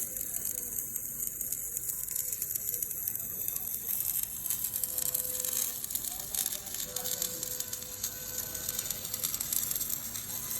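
Welding arc on a hot crankshaft, sizzling and crackling steadily as metal is laid onto the crank.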